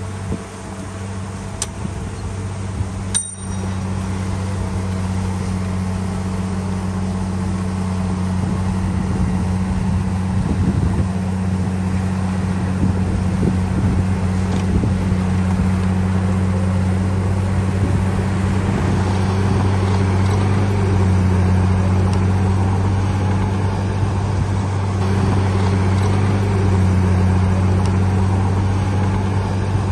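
Bulldozer's heavy diesel engine running steadily, a low drone that grows a little louder after the first few seconds, with one sharp click about three seconds in.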